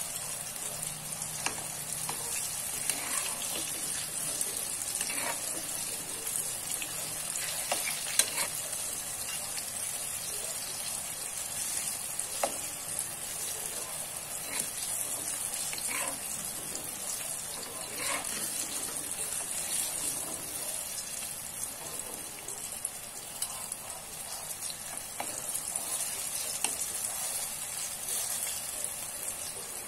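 Slices of long eggplant sizzling steadily as they fry in oil in a wok, with a spatula scraping and knocking against the pan now and then as they are turned.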